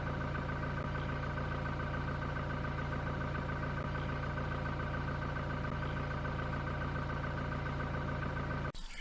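Car engine running steadily at an unchanging pitch, cutting off abruptly near the end.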